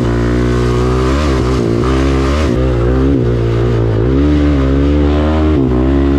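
Dirt bike engines running and revving, their pitch rising and falling repeatedly as the throttle is worked.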